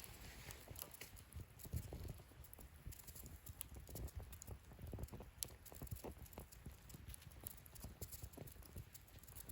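Wood fire burning in a fire-pit stand, crackling with irregular small pops and soft thuds and a few sharper snaps.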